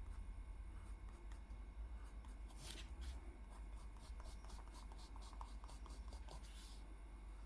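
Faint scratching strokes of a drawing tool on paper, with one longer stroke about three seconds in, over a low steady hum.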